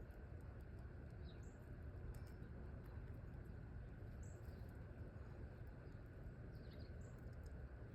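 Small birds giving a few brief, high chirps now and then, faint over a steady low background rumble.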